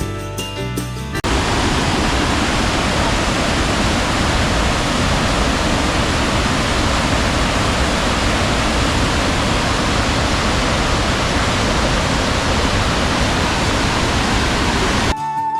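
Music for about a second, then it cuts abruptly to the loud, steady rush of a waterfall, which runs on until music comes back in near the end.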